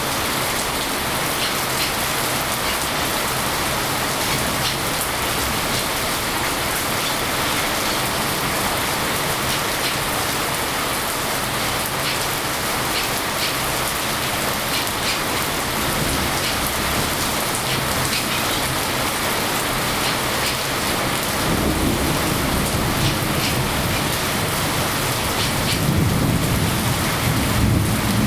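Steady rain, an even hiss with scattered drop ticks; from about two-thirds of the way in a low rumble of thunder rises and grows loudest near the end.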